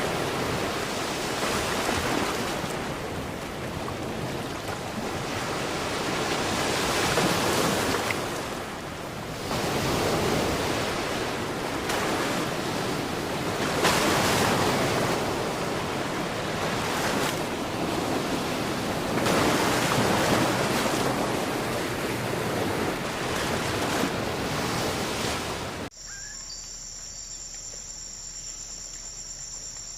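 A rushing noise that swells and fades every few seconds, like water or surf. Near the end it cuts off abruptly to a steady, high-pitched chorus of insects such as crickets.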